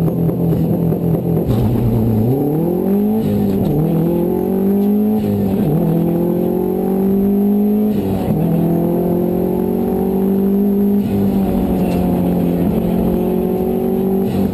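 Subaru WRX STI rally car's turbocharged flat-four accelerating hard up through the gears. The engine pitch climbs and drops at each gear change, three changes in the first eight seconds, then holds steadier revs.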